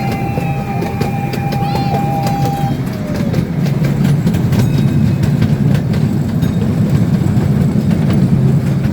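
Gas-powered narrow-gauge ride-on train running: a steady low rumble with many short clicks from the wheels on the track. A steady high tone sounds over it for the first few seconds, then falls away.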